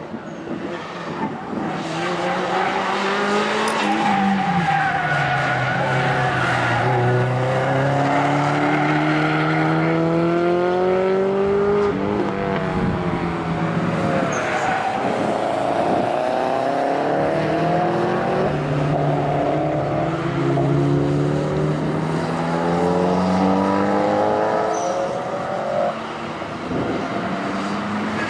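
Subaru Impreza's flat-four engine pulled hard through the gears, its pitch climbing under acceleration and dropping sharply at each shift or lift, over and over.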